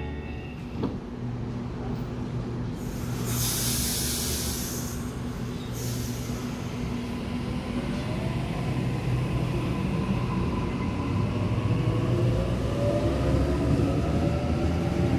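A train at a station: a burst of air hiss about three seconds in, then a whine of several tones rising in pitch as it accelerates, over a steady low hum that grows louder.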